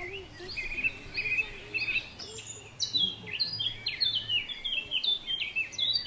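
Songbirds singing and chirping: quick runs of repeated notes and short falling whistles, busier in the second half, over a faint steady low hum.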